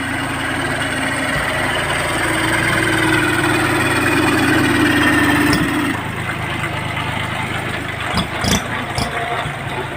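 Farm tractor engine running steadily, its level building and then easing off about six seconds in, with a few knocks near the end.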